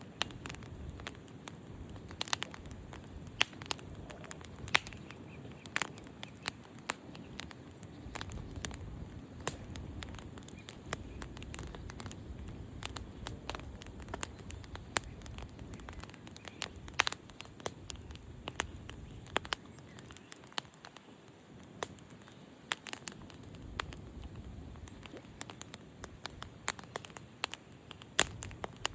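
Campfire burning, with irregular sharp crackles and pops from the burning wood over a low rumble of the flames.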